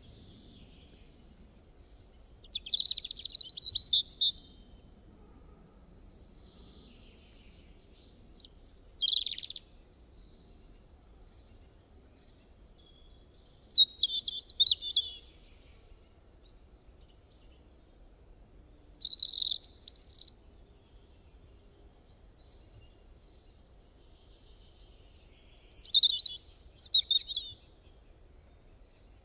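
A songbird singing short chirpy phrases of about a second or two, repeated every five or six seconds, over a faint low background hum.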